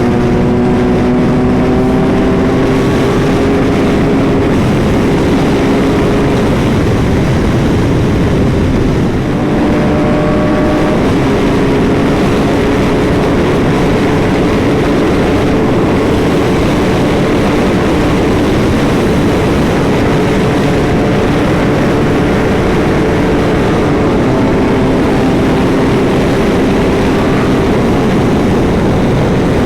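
BMW R 1250 GS Adventure's boxer-twin engine pulling hard at speed over heavy wind rush. The engine note climbs slowly in pitch and drops back at an upshift about nine seconds in, then climbs again through further gears.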